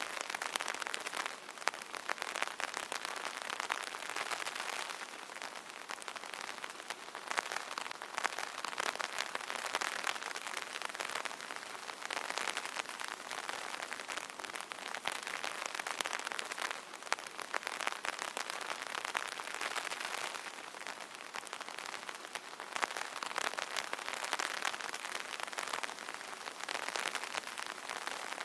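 Steady light rain pattering on an umbrella canopy, a dense rush of small drop taps that swells and eases gently every few seconds.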